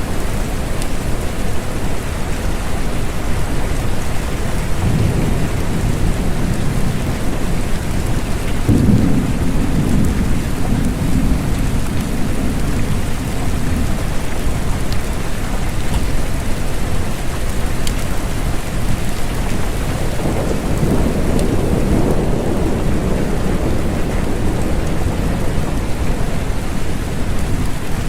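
Steady rain falling, with low rolls of thunder rumbling through twice, about five seconds in and again past the twenty-second mark.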